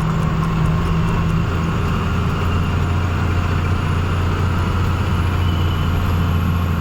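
Diesel truck engine running steadily with a low, even drone while the truck is driven.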